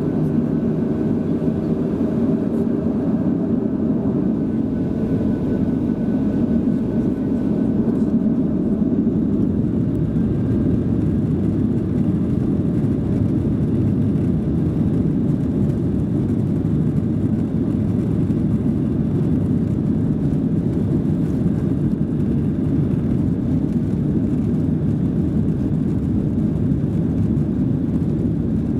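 Inside the cabin of a Boeing 737-700 on takeoff: its CFM56-7B turbofans at takeoff power give a steady, loud rush of engine and airflow noise. A few faint steady engine tones over the rumble fade out after about nine seconds.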